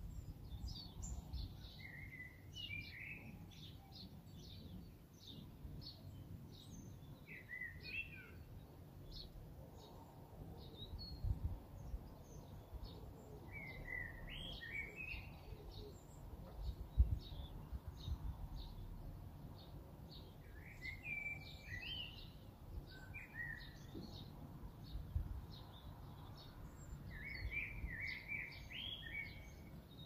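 Songbirds singing: a run of quick, high chirps that goes on throughout, and a short warbled song phrase that comes back about every six seconds. A low background rumble lies underneath.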